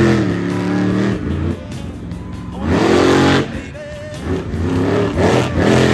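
Monster truck engines revving hard in repeated bursts, the pitch climbing sharply with each stab of throttle and falling away between bursts, four times in a few seconds.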